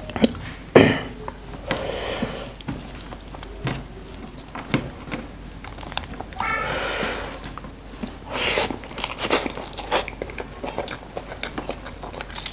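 Close-miked chewing of a person eating rice and stir-fried water spinach by hand, with many short wet clicks and lip smacks.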